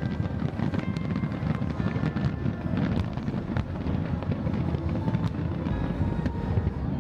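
Fireworks going off: continuous dull booms with many sharp crackles and pops, mixed with music.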